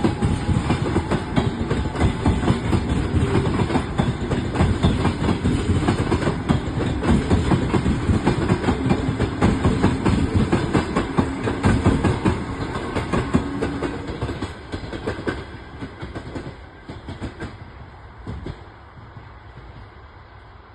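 A train passing, its wheels clattering rapidly over the rail joints; the clatter fades away over the last several seconds as the train moves off.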